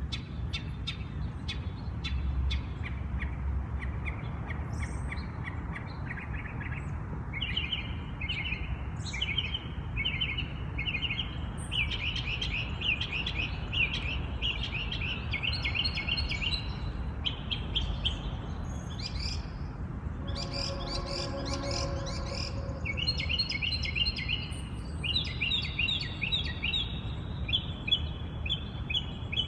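A songbird singing a long string of rapid, high phrases, each repeated several times before it switches to a new one. About two-thirds of the way through, a lower call from another bird joins briefly, over a steady low rumble.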